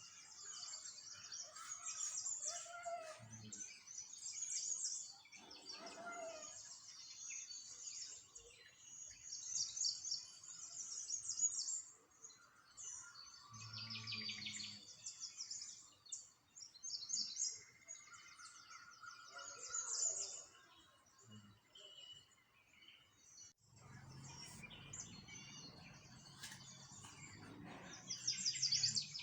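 Small songbirds chirping and trilling in quick, high-pitched bursts, several overlapping. A low rumble comes in for a few seconds near the end.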